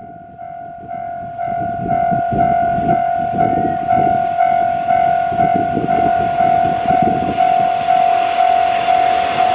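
Railway level crossing warning bell ringing in even pulses about twice a second, while a train rumbles past, getting louder over the first couple of seconds.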